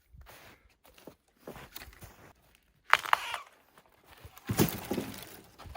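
Irregular crunching and rustling in snow while dead wood is worked, with a sharp knock about three seconds in and heavier knocks about a second and a half later.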